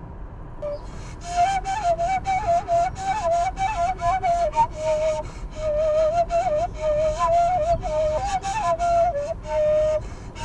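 Background music: a solo flute plays a wavering, ornamented melody that comes in about a second in, over a low steady accompaniment.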